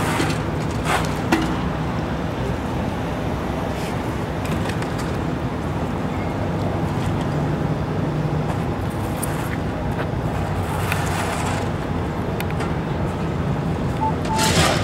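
Steady vehicle and traffic noise, with a few louder swells as vehicles pass.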